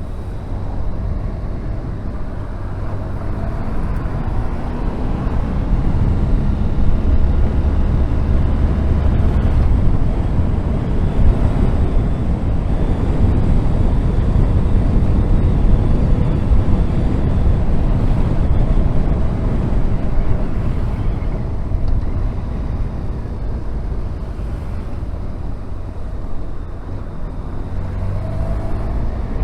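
Honda VFR1200F motorcycle's V4 engine running while riding in traffic, with wind rush. It gets louder from about five seconds in, eases off in the second half, and revs up again near the end.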